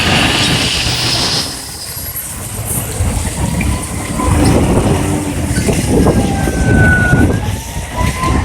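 Heavy fire apparatus rumbling past on an emergency response, with a hiss in the first second and a half and a siren wailing faintly, slowly rising and falling, in the second half.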